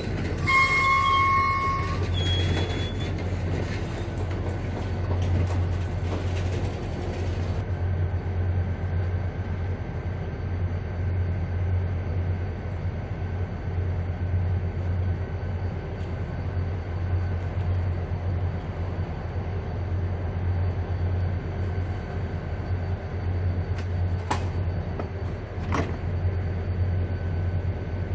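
Mugunghwa-ho passenger train standing at a station platform with a steady low hum from its running equipment. In the first few seconds there is a brief high squeal as it comes to a halt, and a hiss stops about seven seconds in. Two short clicks come near the end.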